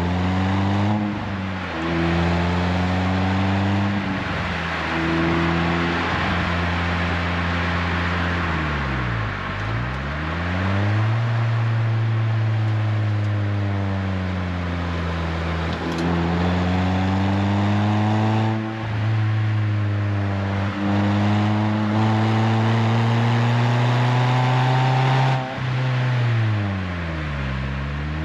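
Renault Twingo RS Gordini's four-cylinder engine through an aftermarket Inoxcar 80mm stainless steel exhaust, pulling hard on an open road: the revs climb and fall again and again, with quick drops at gear changes and a deep dip and recovery about nine seconds in and again near the end.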